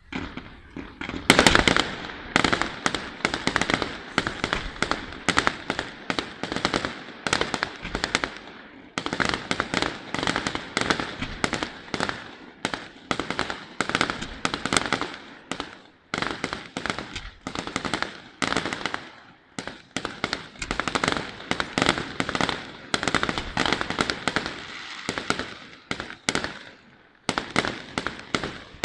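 Fireworks display: a rapid, almost continuous volley of shell bursts and crackling bangs, with a loud burst about a second in and a few brief lulls.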